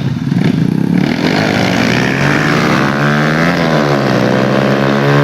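Motorcycle engine running steadily under way, its pitch wavering gently without sharp revs.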